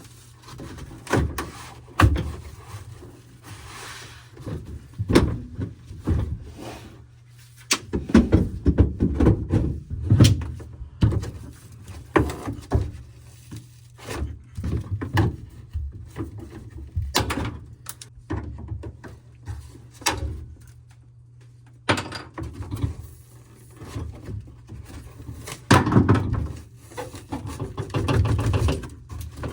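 Irregular knocks, clunks and scraping of car interior parts being worked loose by hand, busiest about a third of the way in and near the end, over a steady low hum.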